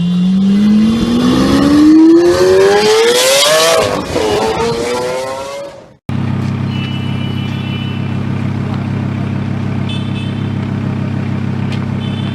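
Lamborghini Huracán LP610-4's V10 with a race exhaust accelerating hard, its note climbing steadily, with a gear change about four seconds in. After an abrupt cut about six seconds in, the engine idles with a steady low drone.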